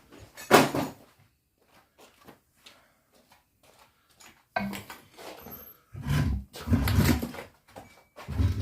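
A sharp clank about half a second in, then from about the middle a man grunting and straining in repeated heavy breaths as he levers a large Land Rover tyre off its rim with tyre bars.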